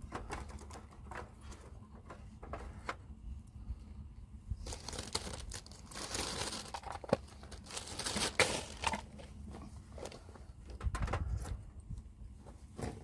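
Crinkling and rustling of things being handled, with scattered clicks and knocks; the rustling is strongest in the middle, and there is a dull thudding shortly before the end.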